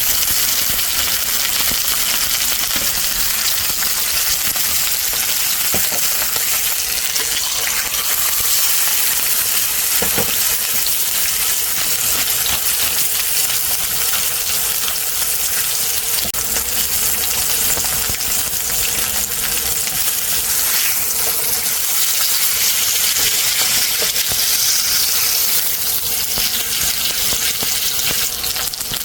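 Beef steak frying in an oiled pan: a steady, dense sizzle with small crackles throughout.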